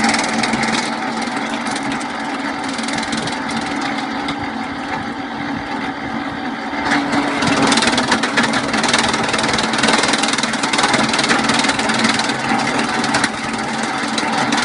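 High-speed chaff cutter, used as a wood chipper, running steadily. About seven seconds in it gets louder, with a dense run of crackling from its blades chopping through material.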